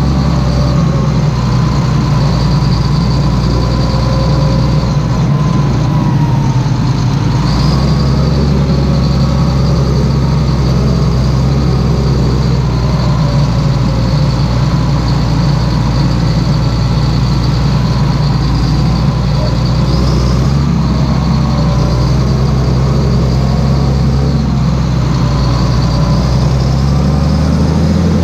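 Claas Xerion 3800 tractor's diesel engine running steadily, a loud even drone with only slight changes in pitch.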